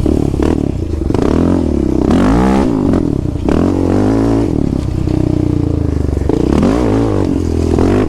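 Off-road vehicle engine being ridden hard, revving up and dropping back again and again, with its pitch rising and falling every second or so.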